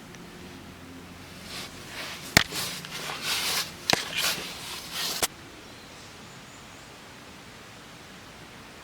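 Rustling handling noises with three sharp clicks, ending abruptly about five seconds in; after that only a faint steady hiss.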